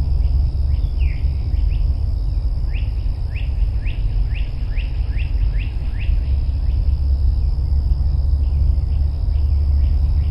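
Wind buffeting the microphone with a loud, steady low rumble. Over it a songbird gives a run of short sweeping chirps, about two a second, for several seconds, against a steady high-pitched insect drone.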